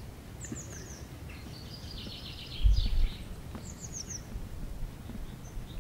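Small songbirds singing: two runs of quick, falling high chirps with a trilling phrase between them. A short low rumble about halfway through is the loudest sound.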